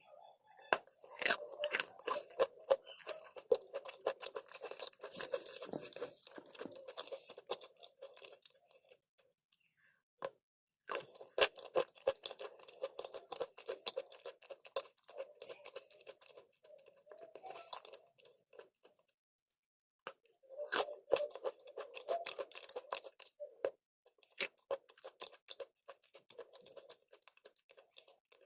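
A person biting into and chewing crunchy chalk and clay. Three rounds, each opening with sharp crunching bites and running into steady chewing, with short pauses about ten and twenty seconds in.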